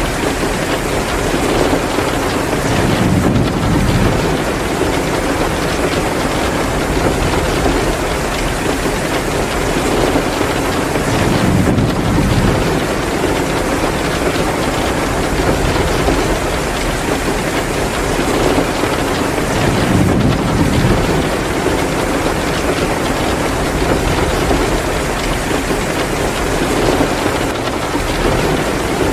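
Heavy rain pouring steadily, mixed with a wood fire crackling in a fireplace. A low rumble swells up and fades three times.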